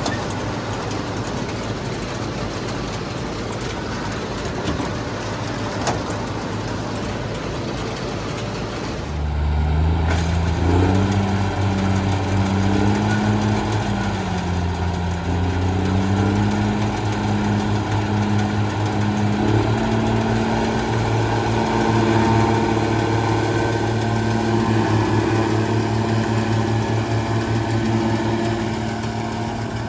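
Farm tractor engine running during forage chopping, a steady machinery drone at first. About nine seconds in, a louder engine takes over, its pitch rising, dipping and climbing again as the load changes.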